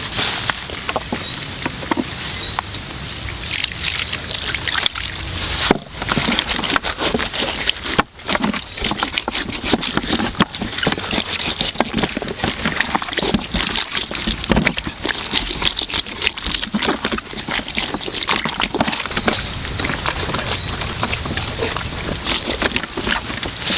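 Water sloshing and splashing in quick, irregular bursts, over a faint steady high-pitched tone. The sound drops out abruptly twice, a little after 5 s and again about 8 s in.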